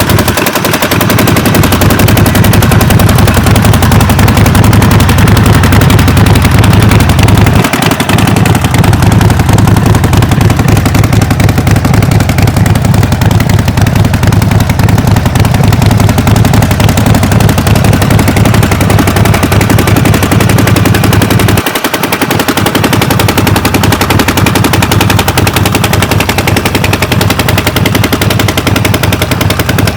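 Harley-Davidson XL 1200 Nightster's air-cooled V-twin engine running steadily, recorded close up, with a rapid, even train of exhaust pulses.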